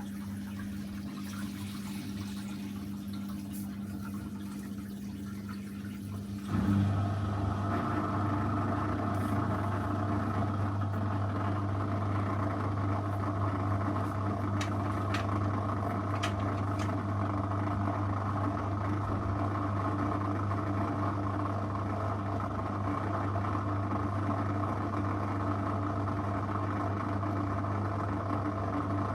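Zanussi FL984CN washing machine running mid-cycle with a steady hum. About six and a half seconds in, the sound steps up suddenly to a louder, fuller steady hum as another stage of the programme cuts in.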